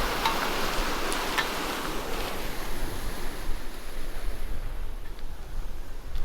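Steady noise of sea surf washing in, with some wind, growing duller about halfway through.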